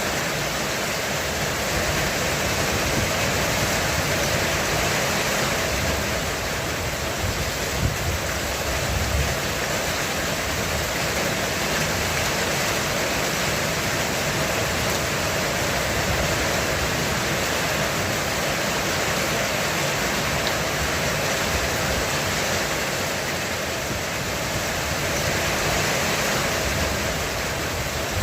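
Heavy rain drumming steadily on a roof, a dense, even hiss of drops.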